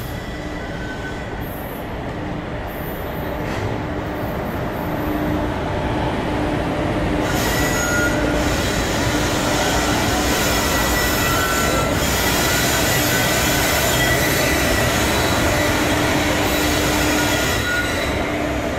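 Twin WAG-5 electric locomotives and their NMG automobile-carrier wagons passing close by: a steady rumble of wheels on rail with high wheel squeal, growing louder over the first several seconds as the locomotives draw level.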